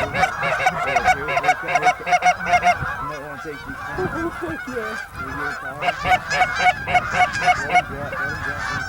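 Geese honking, many calls overlapping, with a fast, even run of honks at the start and another from about six seconds in.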